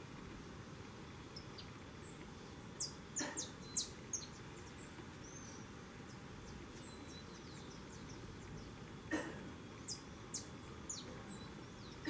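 Birds chirping: scattered short, high chirps over a steady outdoor hiss. They come in two bunches, about three seconds in and again about nine seconds in.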